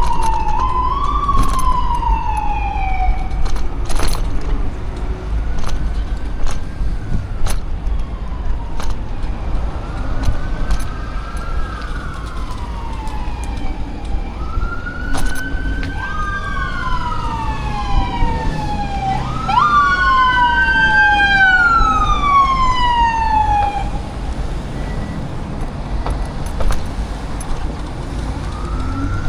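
Emergency vehicle sirens wailing in slow rising and falling sweeps that repeat every few seconds, with two sirens sounding together at different pitches a little past the middle, over a steady low rumble.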